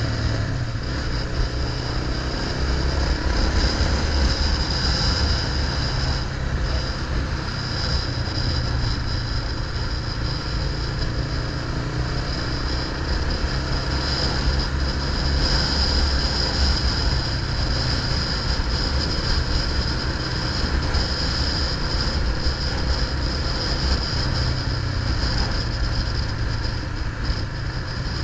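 Continuous noise of a moving bike ride: a steady low rumble with a constant high hiss running over it, unbroken throughout.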